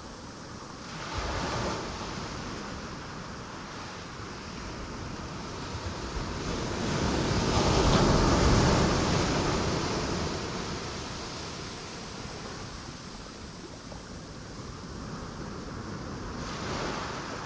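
Sea waves breaking on rocks: a wave surges in about a second in, a bigger one swells to its loudest around the middle and washes back, and another starts to break near the end.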